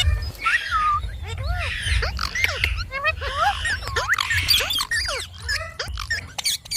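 Indian ringneck parrot chattering in a quick string of short, high calls that swoop up and down in pitch.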